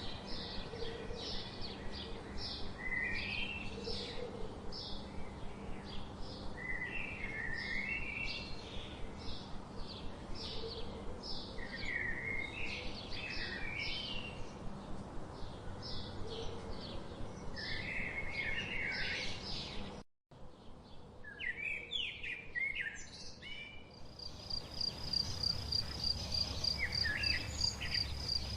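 Small songbirds chirping in rapid, repeated short calls. About 20 s in the sound cuts briefly to another stretch of chirping, and from about 24 s a steady high-pitched insect trill runs under occasional chirps.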